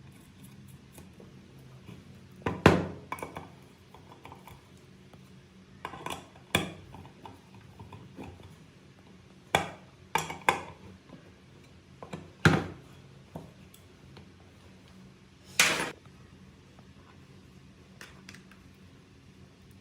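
Metal parts clinking and clanking as they are handled and set down, about eight separate knocks at irregular intervals, each with a short ring.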